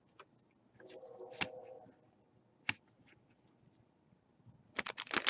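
Trading cards and their packaging being handled: a few scattered light taps, then a dense run of rustling and crinkling near the end.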